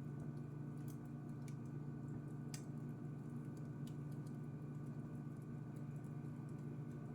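Wood fire crackling: scattered sharp pops and snaps, the strongest about two and a half seconds in, over a steady low hum.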